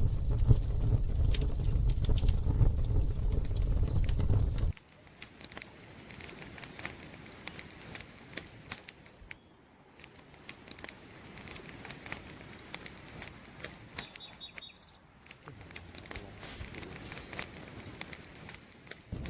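Campfire crackling, with many sharp pops and snaps. A loud low rumble runs under it for the first four or five seconds and then cuts off abruptly, leaving only the crackle. A few faint, short, high chirps come about two-thirds of the way through.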